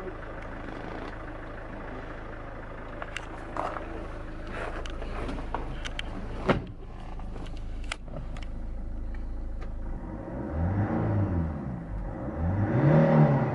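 Daewoo Winstorm SUV engine idling steadily, with a few light clicks and one sharp click partway through, then revved twice near the end, the pitch rising and falling each time.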